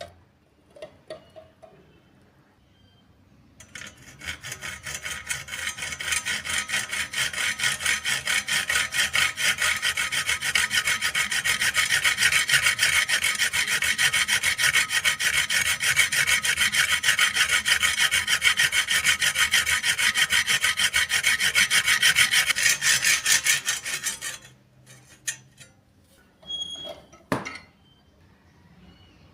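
A blade scraped in quick, even back-and-forth strokes against a sharpening surface, a steady gritty rasp that builds up over the first couple of seconds and stops abruptly. A few light clicks and a knock follow.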